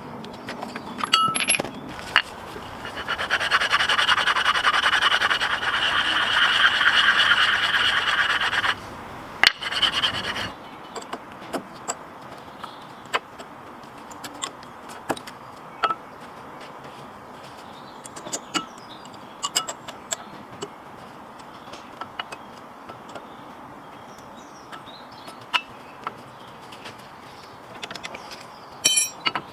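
Metal scraping steadily for about six seconds, then stopping abruptly, followed by a few knocks and many scattered light clinks of metal tools and parts during brake work.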